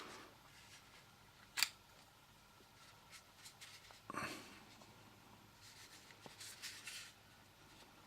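Faint handling noises from a small hair trimmer turned over in the hand: a single sharp click about a second and a half in, a brief rustle around four seconds, then light ticks and rubbing. The trimmer's motor is not running.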